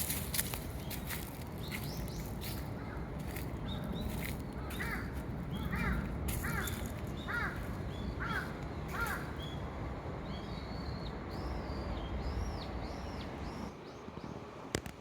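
A crow cawing about six times in a steady series, roughly one caw a second, followed by higher, arching calls of smaller birds.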